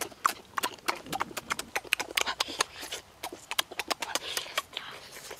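Close, open-mouthed chewing of cooked frog, with many quick, irregular wet clicks and lip smacks.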